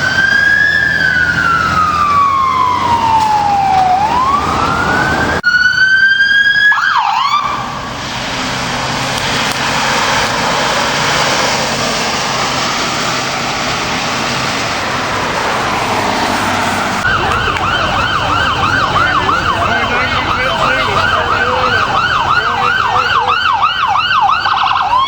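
Emergency vehicle sirens: an electronic siren wailing slowly up and down, cut off abruptly about five seconds in. A noisy stretch of traffic and engine sound follows, then a fast yelp siren warbling several times a second for the last several seconds, with a new wail starting at the very end.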